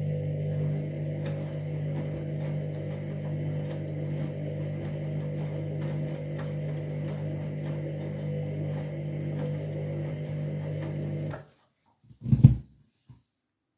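Candy washing machine's motor turning the drum in a wash tumble, a steady hum with a faint regular ticking, which stops suddenly about eleven seconds in. One or two loud thuds follow near the end.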